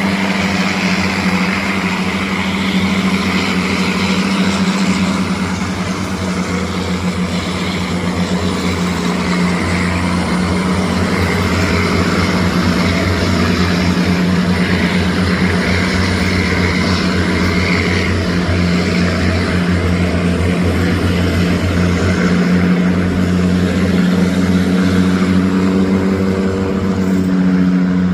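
Tugboat's diesel engine running steadily under load while towing loaded barges, a constant low drone that does not change pitch.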